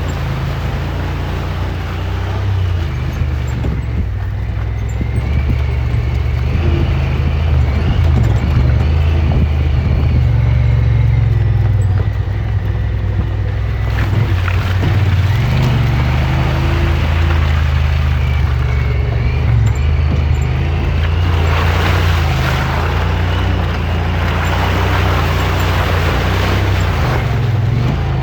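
Side-by-side UTV engine running as it drives along a dirt trail, its note shifting up and down with the throttle. About three quarters through, a rougher rushing noise joins in for several seconds.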